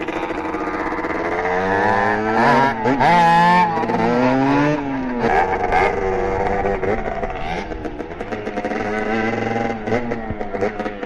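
Small two-stroke motorcycle engines revving hard on the move, the pitch climbing and dropping with throttle and gear changes; loudest about three seconds in.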